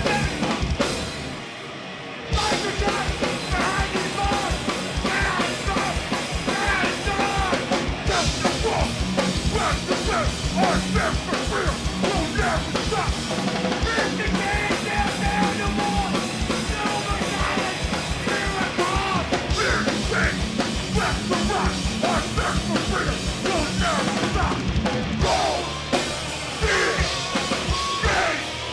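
Hardcore punk band playing live, loud and fast, with a pounding drum kit driving it; the band cuts out briefly about a second and a half in, then crashes straight back in.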